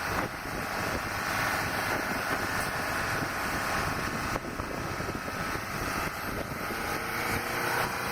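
A vehicle driving with its engine running steadily under a continuous rushing noise.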